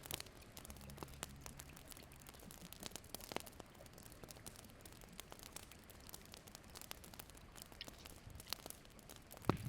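Faint, sparse crackles and clicks over a low background hiss.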